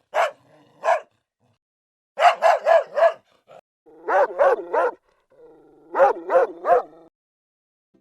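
A dog barking: two single barks, then three quick runs of three or four barks with pauses between.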